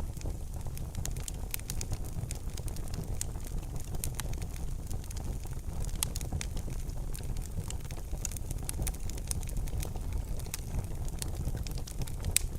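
Wood fire crackling in a fireplace: irregular small snaps and pops over a steady low rumble, with a sharper pop about six seconds in and another near the end.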